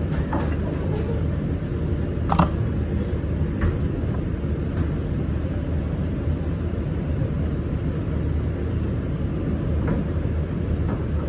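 Steady low background rumble with a few short, sharp clinks, the clearest about two seconds in.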